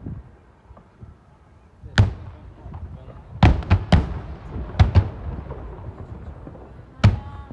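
Aerial fireworks shells bursting overhead, each a sharp bang with a low rumbling tail. There is a single bang about two seconds in, a quick cluster of four or five around the middle, and another near the end.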